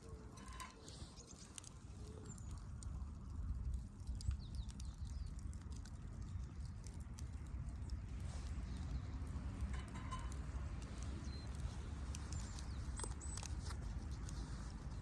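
Wood fire crackling in a fire pit: scattered small pops and ticks over a steady low rumble.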